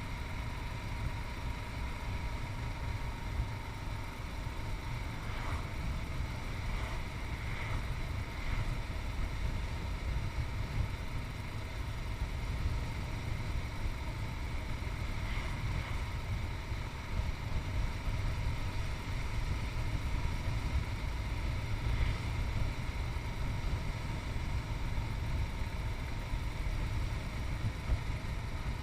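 Yamaha MT-03's 660 cc single-cylinder engine running steadily while riding, with a constant low rumble of wind on the chest-mounted microphone.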